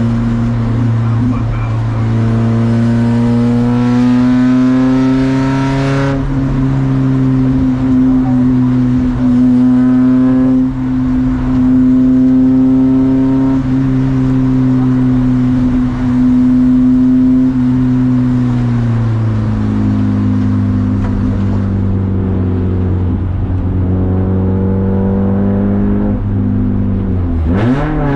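Race car engine running hard at high revs. Its pitch climbs in several pulls, settles lower about two-thirds of the way through, and dips sharply then rises again near the end.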